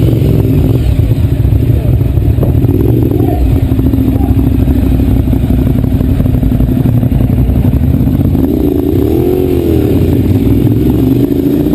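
Motorcycle engine running steadily, with a rev that rises and falls about nine seconds in.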